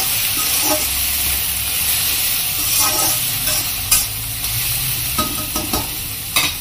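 Vegetables (sliced potato, onion, green chillies and grated bitter gourd) sizzling in hot oil in a kadai while a perforated metal spatula stirs and scrapes them. A few sharper clinks of the spatula on the pan stand out, the loudest about four seconds in and near the end.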